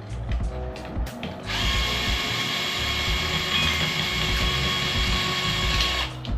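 A power drill runs steadily with a whine for about four and a half seconds, then stops suddenly. A few clicks and knocks come before it.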